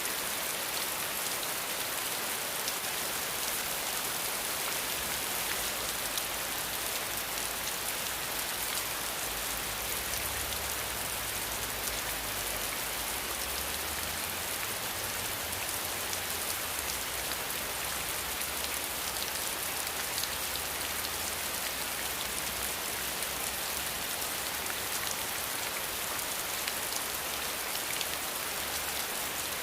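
Steady, even rain hiss with fine drop ticks, dense rainfall on surfaces. A faint low rumble sits underneath for a stretch in the middle.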